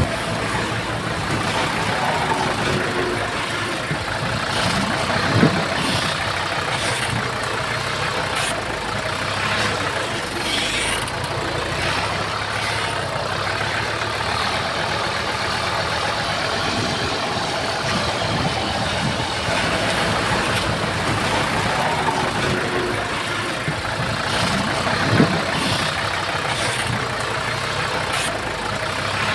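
Heavy earthmoving machinery running steadily, a diesel engine working under a mechanical rumble. Two brief sharp knocks stand out, one a few seconds in and one near the end.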